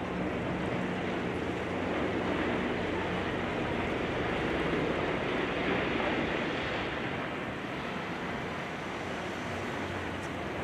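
A heavy demolition machine's diesel engine running with a low steady hum, under a loud, even rushing noise.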